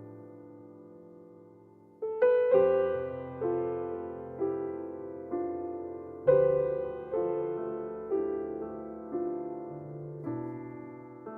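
Slow, gentle solo piano music: a held chord fades away, then notes and chords are struck about once a second, each ringing out, with the loudest chord about six seconds in.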